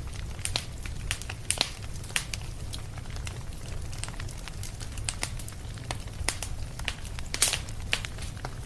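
Wood fire crackling in a fireplace: irregular sharp pops over a steady low rumble, one louder pop near the end.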